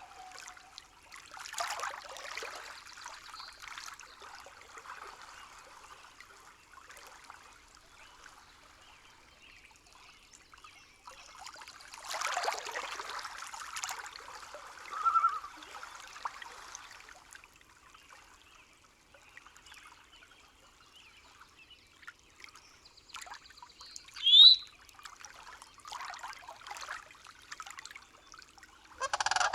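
Recorded forest ambience: a faint trickle of water with a few scattered bird calls, the loudest a single sharp rising chirp about five seconds before the end.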